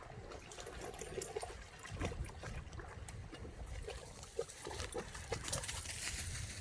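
Dogs playing in a river, splashing and scuffling through the water in irregular splashes, with louder splashing near the end.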